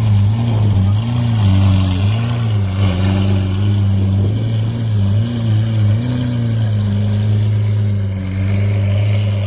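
Lamborghini Aventador's 6.5-litre V12 idling after a cold start, its pitch wavering up and down for about the first six seconds, then holding steady.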